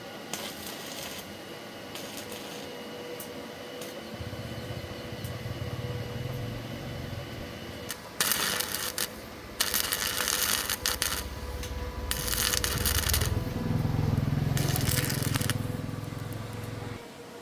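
Metal scraping and clattering in four loud bursts over a low steady hum that starts about four seconds in and stops just before the end.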